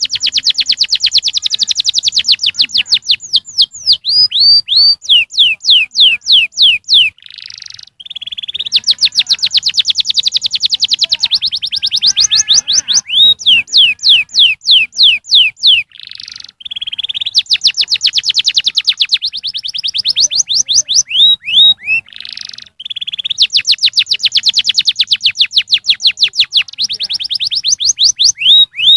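Domestic canary singing: long runs of fast, high trills, many notes a second, each note sweeping downward, broken by short pauses three times.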